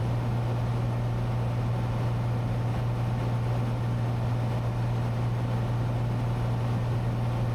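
Cessna 182T's Lycoming IO-540 six-cylinder engine and propeller running steadily in cruise, heard inside the cabin as a constant low drone with an even rush of airflow noise over it.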